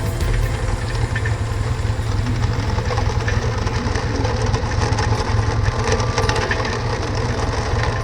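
Dune buggy engine running steadily: a low, even drone.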